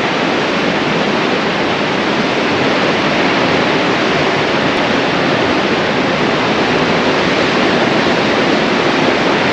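A steady, even rushing noise with no rhythm or pitch.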